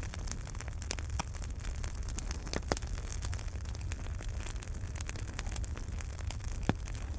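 Wood fire burning in a fireplace: a steady low rumble and hiss with irregular crackles and sharp pops, the loudest about two and a half and six and a half seconds in.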